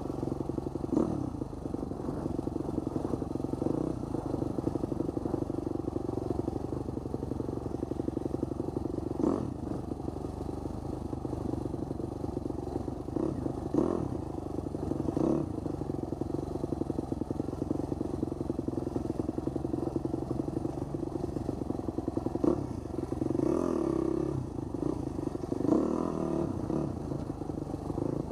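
Husqvarna 250 dirt bike engine running steadily at moderate revs while riding a rough dirt road, with a few sharp clunks and clatters from the bike jolting over bumps and rocks.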